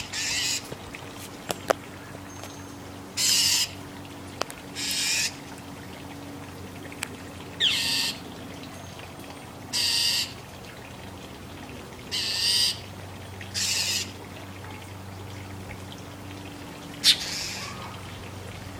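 Northern mockingbird giving about eight short, harsh, rasping calls, one every two seconds or so: the scolding of a mockingbird harassing a cat. A faint steady low hum lies underneath.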